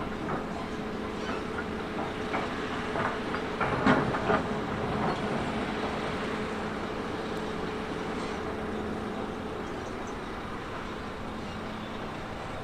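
Heavy earthmoving machine running steadily with a constant engine hum, and a few short metallic clanks about four seconds in.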